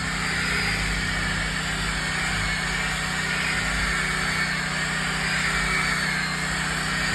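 Power sander running steadily against a log wall, a continuous machine whine and hum with a gritty sanding hiss that swells and eases a little as the pad works the wood.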